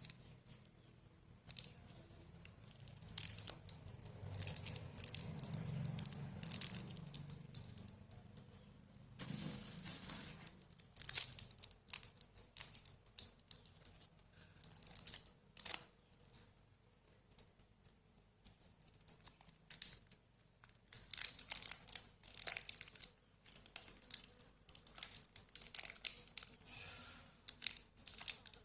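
Candy and chocolate wrappers being crinkled and torn open, in bursts of crisp crackly rustling with short pauses between.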